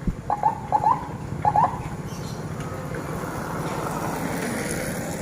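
Road traffic: a vehicle engine running and passing, with a thump at the start and three pairs of short squeaky chirps in the first two seconds.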